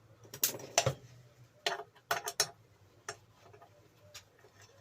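Irregular metallic clicks and clinks of hand tools against a bench grinder's steel covers and bolts: a few sharp knocks, the loudest within the first second, then a quick cluster about two seconds in and a couple of lighter ones later.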